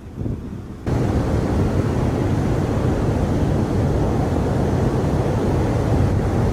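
Strong hurricane wind buffeting the microphone, with surf beneath it: a loud, steady roar of noise that comes in suddenly about a second in.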